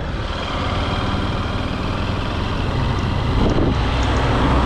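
Honda CRF150L's single-cylinder four-stroke engine running steadily as the bike rides along the road, getting a little louder near the end.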